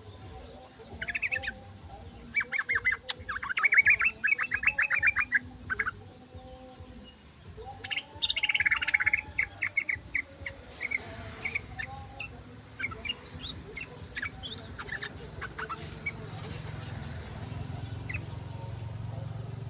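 Yellow-vented bulbul (trucukan) chattering in rapid trilled bursts: a short burst about a second in, a longer one from about 2.5 to 5.5 seconds, another around 8 to 10 seconds, then scattered short notes. A faint low drone comes in during the second half.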